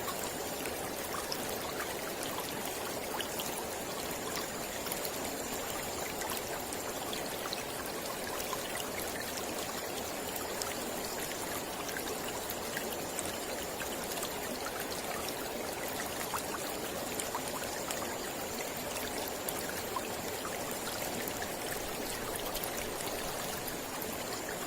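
Mountain river flowing steadily, a continuous even rush of water with small scattered splashes.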